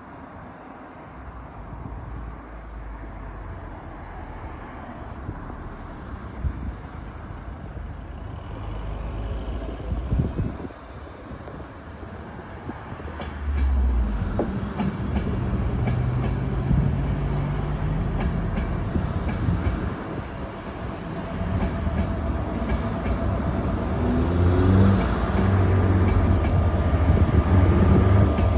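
Diesel train approaching along the line, its engine and wheel noise growing steadily louder as it nears. In the second half a low engine hum shifts up and down in pitch.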